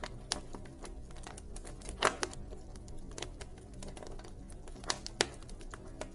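Wood fire crackling: a dense run of small snaps with a few louder pops, the loudest about two seconds in and two more around five seconds, over a low, steady rumble of flames.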